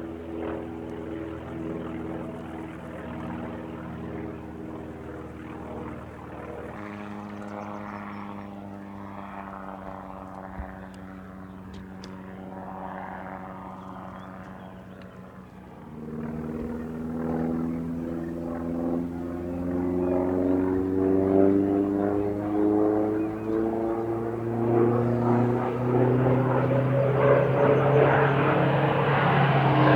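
A North American T-28 Trojan's Wright R-1820 nine-cylinder radial engine and propeller running in flight, a steady drone for the first half, then growing louder and rising in pitch over the last dozen seconds.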